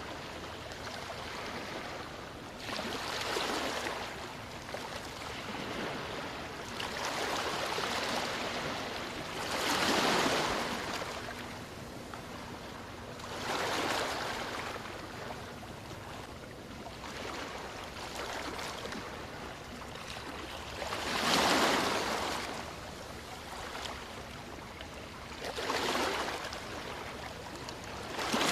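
Sea waves breaking and washing back: a steady hiss of surf that swells into a louder wash every few seconds, about seven times, each one building and then fading.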